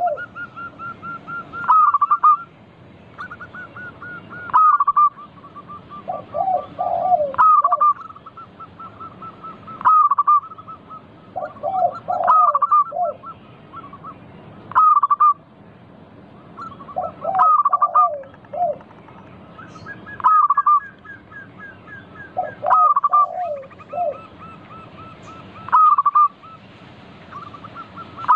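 Zebra doves (perkutut) cooing: a repeated phrase of quick staccato notes ending in a louder coo, about every two and a half seconds, with lower notes between some of the phrases.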